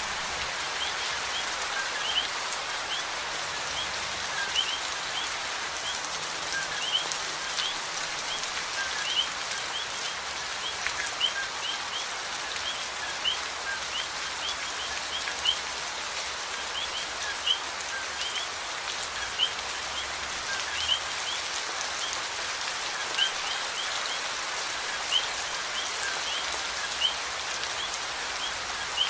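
Steady rainfall, with many short rising plinks of drops falling into water and a louder single drip about every two seconds.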